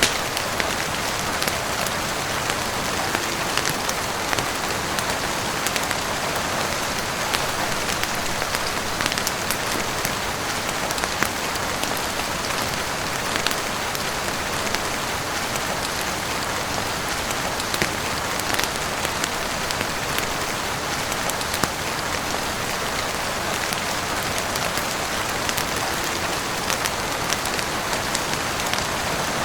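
Heavy rain falling steadily on a roof, an even hiss with many small, scattered drop ticks throughout.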